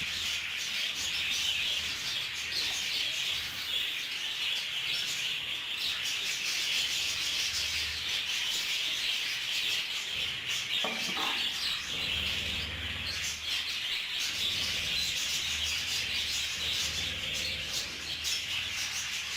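Small USB phone fan blowing the husks off a heap of budgie seed: a steady rustling hiss of chaff and seed, with budgerigars chirping in the background.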